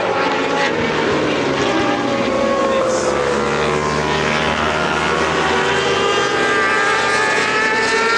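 Several racing motorcycle engines running hard on the circuit, loud and continuous, their pitches overlapping and sliding down and back up as the bikes pass.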